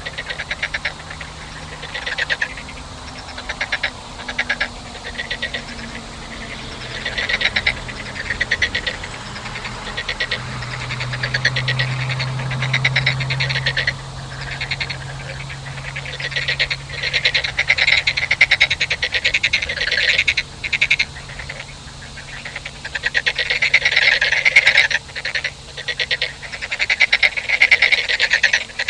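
A chorus of frogs calling: many overlapping rapid trains of pulses, growing denser and louder in the second half. A low steady hum runs underneath.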